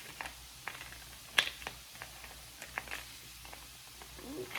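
Plastic pieces of a Hot Wheels car wash playset clicking and knocking as they are handled and fitted together, with a sharper click about a second and a half in.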